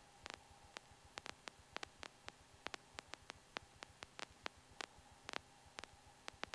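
Near silence on an air traffic control radio feed between transmissions, with faint, irregular clicks and crackle of radio static.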